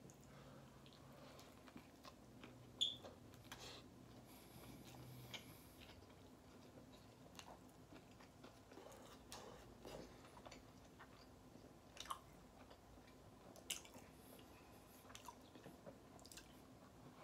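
Faint close-miked chewing of a burger, with scattered wet mouth clicks and smacks; the sharpest click comes about three seconds in.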